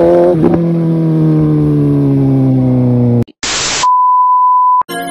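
A superbike engine note, its pitch falling steadily for about three seconds, then cut off abruptly. A short burst of hiss follows, then a steady high beep lasting about a second.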